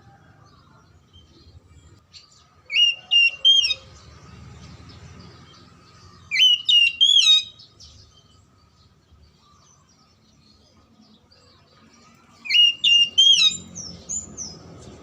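Oriental magpie-robin (kacer) singing: three short bursts of clear whistled notes that bend up and down, each about a second long, with quiet gaps of several seconds between them.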